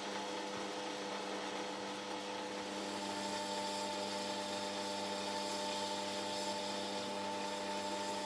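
A workshop power tool running steadily: an even motor hum with several constant tones over a hiss, unchanging throughout.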